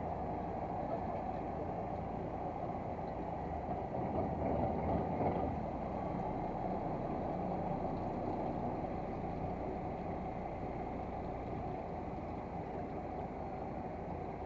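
A fishing boat's engine running steadily, mixed with wind and water noise on deck, swelling a little about four to five seconds in.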